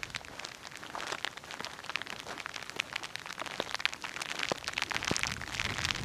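Raindrops falling on a nearby surface: many irregular sharp ticks over a light hiss, growing denser and louder near the end.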